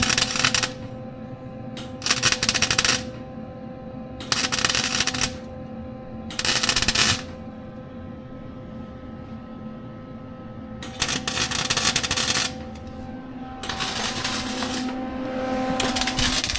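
Wire-feed MIG welder crackling in short bursts of about a second each, about seven times, as a hole in an exhaust pipe is stitch-welded shut. A steady electrical hum continues between the bursts.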